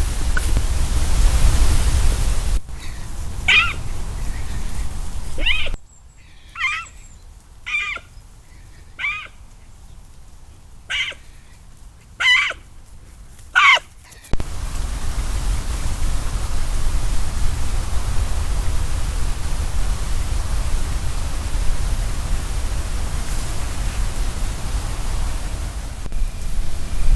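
Steady rushing noise, heaviest in the low end, like wind on the microphone. In the middle this gives way to a quieter stretch with a series of about eight short, high-pitched animal calls, roughly one a second.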